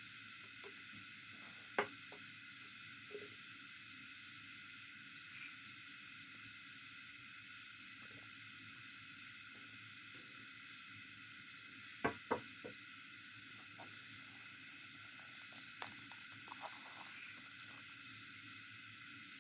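Faint, steady background insect chirring with a fast, even pulse, broken by a few sharp clicks: one about two seconds in, two in quick succession about twelve seconds in, and a couple of smaller ones near the end.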